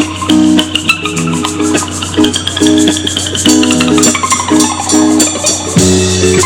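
Live band playing the opening of a song: short pitched chords repeated in a loose rhythm, with a shaker-like rattle over them and a high tone that slides up and then back down through the middle.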